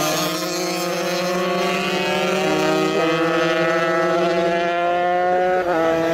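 125cc racing motorcycles at full throttle. The engine pitch climbs steadily and drops sharply at gear changes, about three seconds in and again near the end.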